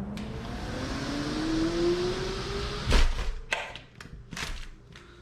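A car accelerating past outside, its engine note rising steadily, then a door shut with a loud knock about three seconds in, followed by a few sharp clicks, after which the traffic noise drops away.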